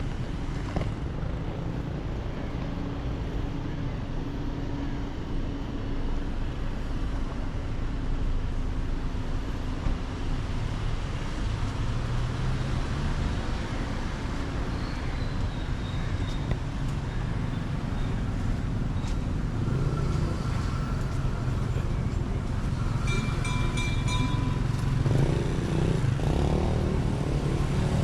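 Steady road-traffic noise of car engines running and passing, with a few brief tones about three-quarters of the way through.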